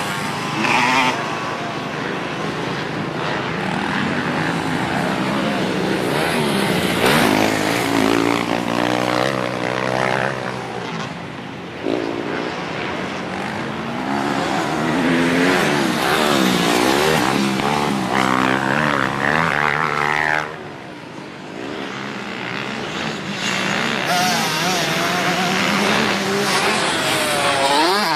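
Dirt bike engine revving as the bike is ridden, its pitch climbing and falling over and over with the throttle. It eases off briefly about twenty seconds in, then winds up again.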